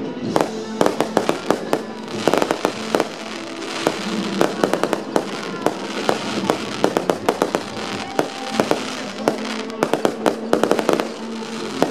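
Aerial fireworks bursting in rapid succession: a dense run of sharp bangs and crackles, several a second.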